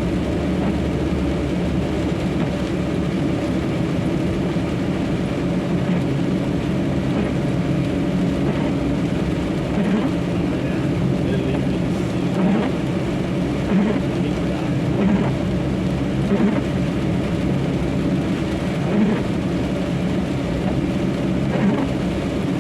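Steady drone of a truck's diesel engine with road noise, heard from inside the cab as it drives slowly, with a few soft bumps in the second half.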